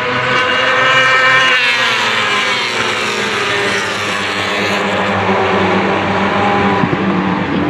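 Superbike racing motorcycles at high revs passing close by. One engine's pitch drops steeply about one and a half seconds in as it goes past, and other bikes keep running behind it.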